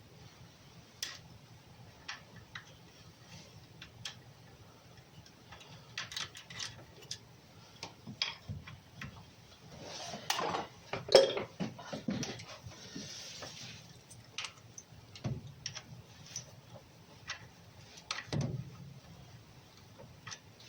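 Hand tools and metal parts clinking and knocking: scattered, irregular clicks, with one louder clank about eleven seconds in.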